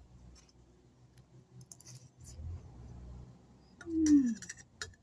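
Eating noises: scattered light clicks and clinks of cutlery against a plate. About four seconds in comes a short vocal sound that falls in pitch.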